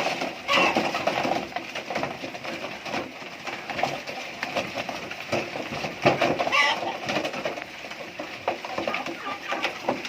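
Chickens making low, soft clucking calls, with scattered clicks and taps throughout and one higher call about six and a half seconds in.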